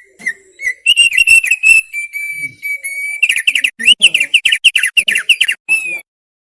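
Opior paruh tebal (thick-billed white-eye) singing a rapid string of sharp chirps with a steady held whistle in the middle, then a fast run of chirps that breaks off about a second before the end.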